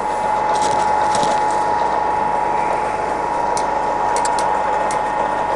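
Scott 6250L centre lathe running with its spindle turning under power, the geared headstock giving a steady whirring noise with a steady whine. A few light clicks sound about half a second in and again from about three and a half to five seconds in.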